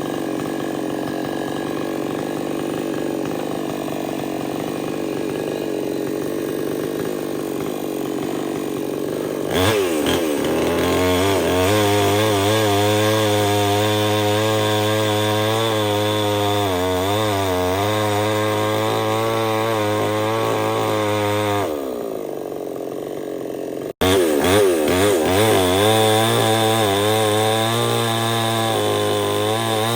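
Stihl 070 two-stroke chainsaw, first at a steady low speed, then revved up about a third of the way in and run hard, its pitch dipping and recovering as the chain bites into the wood. Around three-quarters through it drops back to a lower speed for a couple of seconds, then after an abrupt break it is at full throttle again, cutting.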